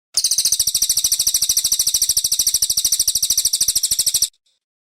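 Brown cililin singing one loud, high, very fast trill of evenly repeated notes, about sixteen a second, for about four seconds, then stopping abruptly.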